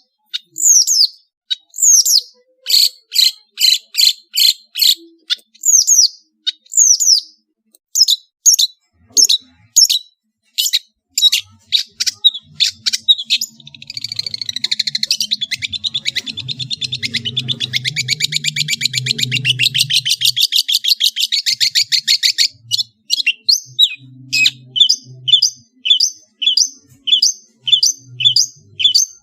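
Long-tailed shrike (cendet) singing loudly. Sharp, high, repeated calls come about twice a second, and partway through they break into a fast chattering trill lasting about eight seconds. After that come quick runs of short notes.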